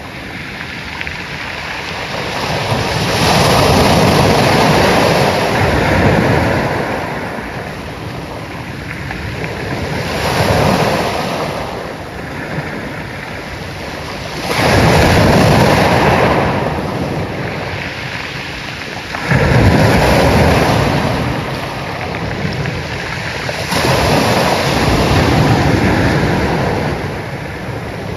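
Ocean waves breaking and washing up the shore, a steady roar of surf that swells every four to five seconds as each wave crashes, with a heavier, deeper crash about two-thirds of the way in.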